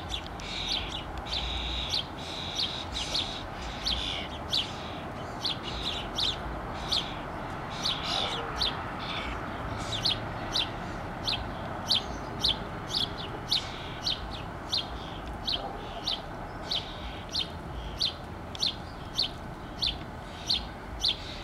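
A songbird chirping over and over in an even rhythm, about one and a half short, sharp chirps a second, over a steady background hiss.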